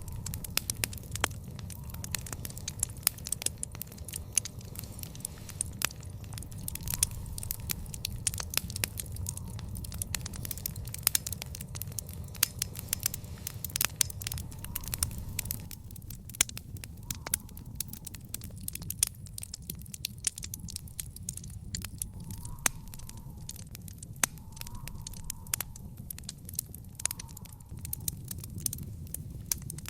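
Wood fire in an outdoor fire pit crackling, with many sharp, irregular pops and snaps over a steady low rumble. Now and then there is a faint short whistle.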